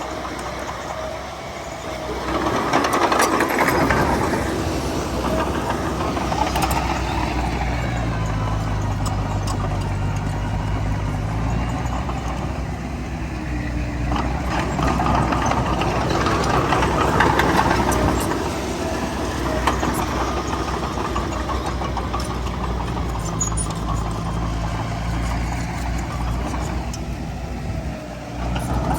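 Heavy diesel engine of earthmoving machinery running steadily, with two louder swells, the first about two seconds in and the second in the middle.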